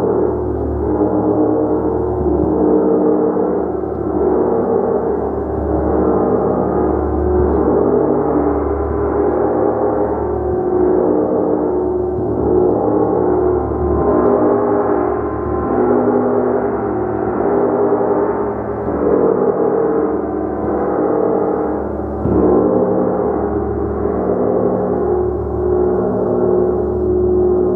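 A gong played continuously, struck again and again so its many ringing tones overlap in a sustained, wavering wash. One sharper stroke stands out about 22 seconds in.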